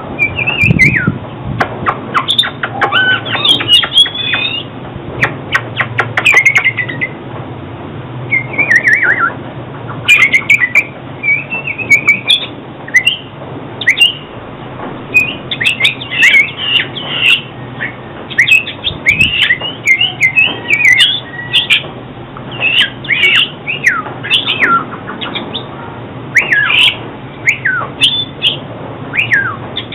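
Oriental magpie-robin singing a long run of quick, varied whistled phrases, many sliding down in pitch, with short gaps between phrases.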